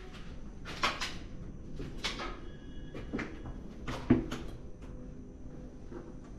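A few short knocks and scrapes, scattered irregularly over a few seconds, over a faint steady high whine.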